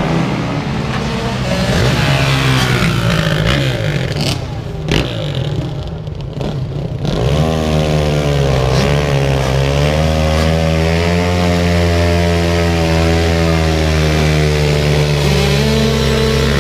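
Motorcycle engines revving unevenly, then from about seven seconds in one engine held at steady high revs, its pitch wavering slightly, as a supermoto spins its rear tyre in a smoking burnout.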